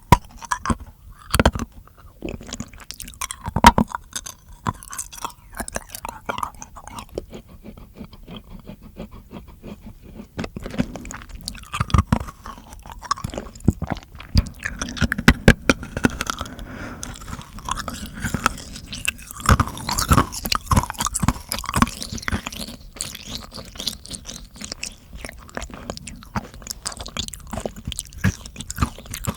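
Close-miked ASMR mouth sounds: a dense, irregular run of sharp wet clicks and smacks with chewing-like crunches.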